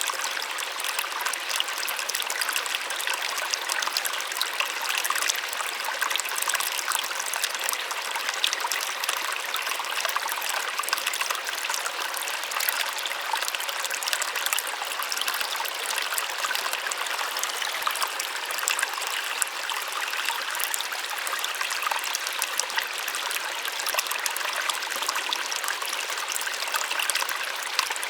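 Small waterfall: water splashing and falling steadily, a soft, even rush heavy in the high end with no low rumble.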